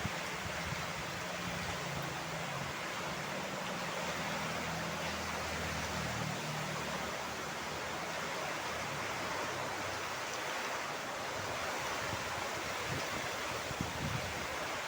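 Rain falling in wind, a steady, even hiss with no break.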